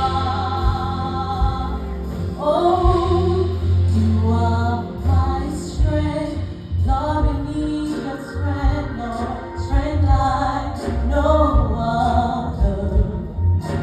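A woman singing a gospel song over a musical accompaniment with a deep bass line.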